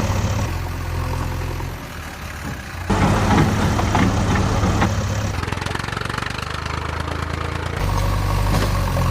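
Vehicle engine idling and running with a low steady hum. The sound changes abruptly about half a second in, near three seconds and near eight seconds.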